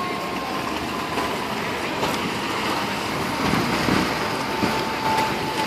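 Steady vehicle and traffic noise, with a faint high tone sliding slowly down in pitch.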